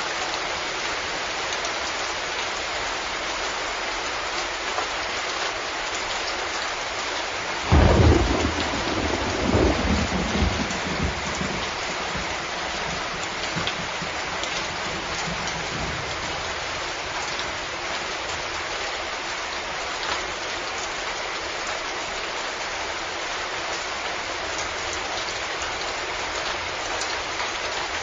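Steady heavy rain hissing. About eight seconds in, a sudden loud thunderclap rumbles away over several seconds.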